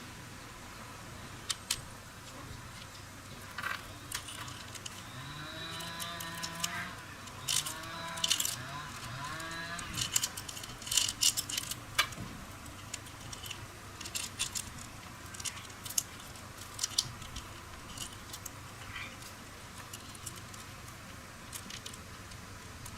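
Scattered light metallic clinks and taps of hand tools and small motorbike parts being handled, thickest about halfway through.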